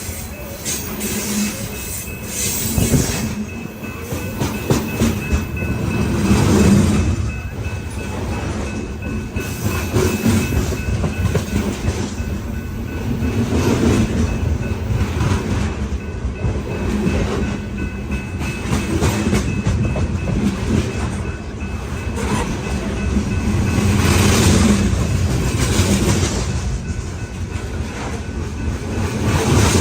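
Freight cars of a long coal train rolling past, a steady rumble with the wheels clicking rhythmically over the rail joints.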